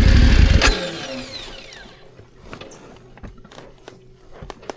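BMW F900GS parallel-twin engine running, then stopping abruptly less than a second in, leaving a brief falling whine. After that, scattered clicks and small knocks.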